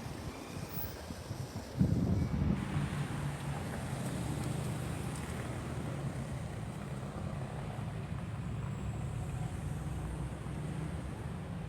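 Car engine running on the road: a low, steady drone that comes up louder about two seconds in and holds.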